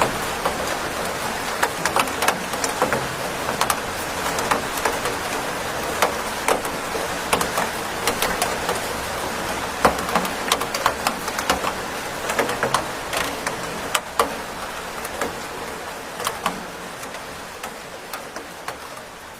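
Steady rain, with many individual drops ticking sharply on a hard surface over the even hiss; it fades gradually over the last few seconds.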